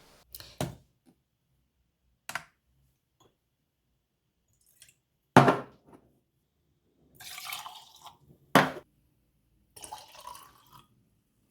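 Liquid poured in two short splashing spells, between a few sharp knocks of containers being handled and set down.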